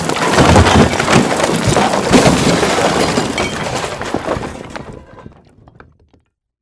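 Crockery smashing: a sudden loud crash followed by a dense clatter of breaking pieces that dies away over several seconds and stops about six seconds in.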